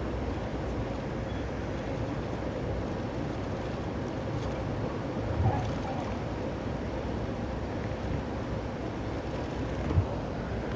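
Steady rumble of a moving passenger train heard from inside a car, with two short louder knocks about five and ten seconds in.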